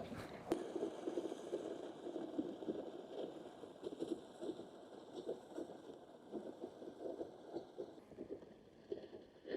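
Water lapping and splashing: a continuous run of small, irregular splashes.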